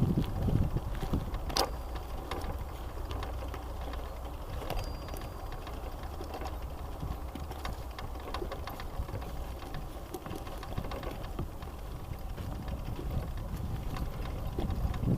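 Bicycle being ridden: a steady rolling rumble from the tyres with a rapid mechanical whirring from the drivetrain, and a single click about a second and a half in.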